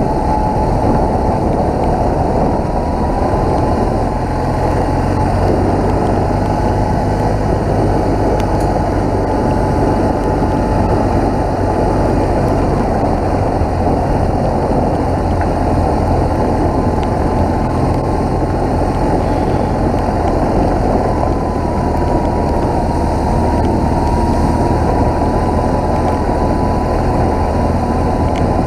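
BMW motorcycle running at a steady pace on the road, its engine under a loud, even rush of wind and road noise that holds steady throughout.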